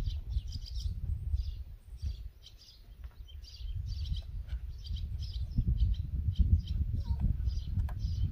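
Birds chirping again and again, several short calls a second, over a low, uneven rumble that dips for about a second around two seconds in.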